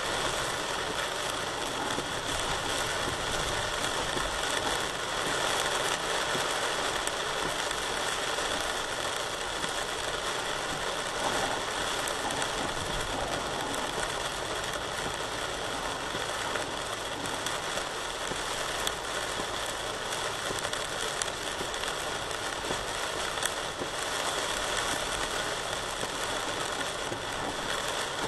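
Heavy rain driven by strong wind: a steady rush of noise scattered with many small raindrop ticks.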